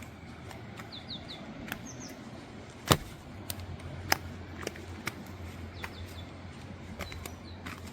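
Small songbirds chirping outdoors: short, high, falling notes, often in quick runs of two or three. Scattered sharp clicks come through, one louder about three seconds in.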